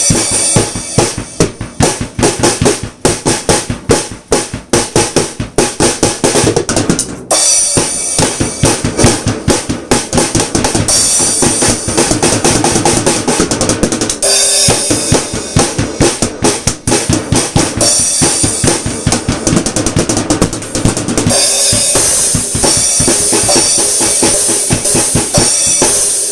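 Ludwig drum kit fitted with new Remo Pinstripe heads, played as a beat: kick, snare and toms under Zildjian ZBT cymbals, in a dense run of hits with brief breaks about seven seconds in and again around fourteen seconds.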